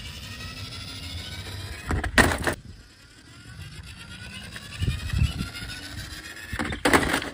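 Vehicle-like sound with a faint, slowly rising whine over a low rumble, broken by two short, loud noisy bursts about two seconds in and again near the end.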